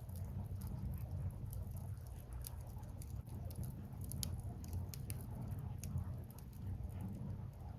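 Burning firewood crackling, with irregular sharp snaps and pops over a steady low rumble.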